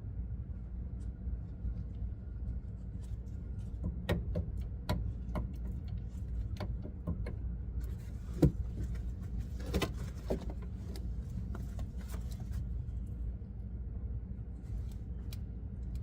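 Scattered metallic clinks and knocks of tools and parts being handled on a truck, with one sharper knock about halfway through, over a steady low rumble.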